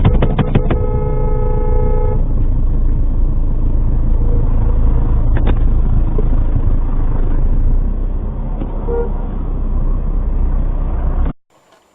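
A car horn sounds one steady honk of about a second and a half right at the start, just after a few sharp clicks. A loud, steady low rumble of a vehicle in traffic runs underneath.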